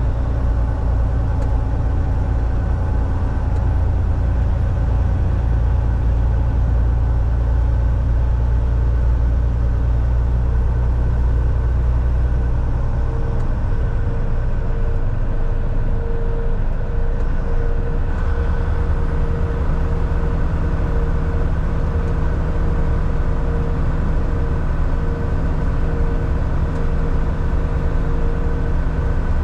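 Volvo VNL 760 semi-truck cruising on the highway: steady diesel engine drone with tyre and road noise. The low engine drone drops off a little under halfway through and settles at a different pitch a few seconds later.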